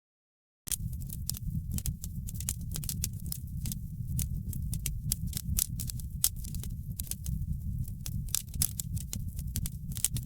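Wood fire crackling in a fireplace: dense, irregular sharp pops and crackles over a steady low rumble. The sound cuts out for under a second at the very start, then resumes.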